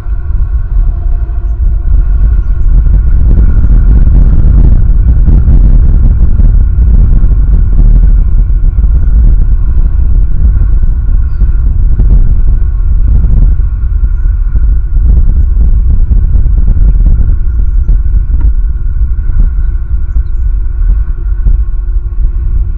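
Strong wind buffeting the nest camera's microphone, a loud low rumble that gusts hardest a few seconds in, with a few faint steady tones above it.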